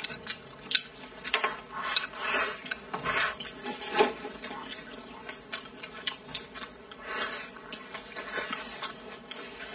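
Close-up eating sounds: irregular wet smacks and chewing as braised chicken is eaten, with occasional chopstick clicks against the bowl.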